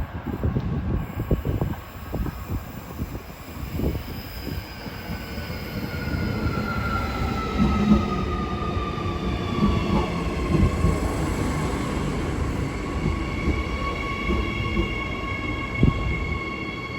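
Transperth electric suburban train at the platform: a high whine that falls in pitch over the first ten seconds or so and then holds steady, over the rumble and clatter of its wheels on the rails.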